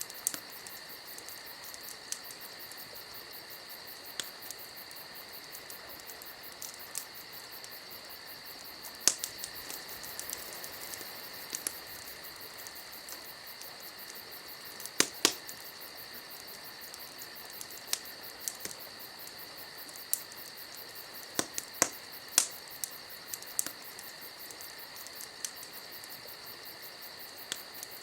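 Wood fire crackling, with scattered sharp pops, a few of them louder, over a steady high-pitched hiss.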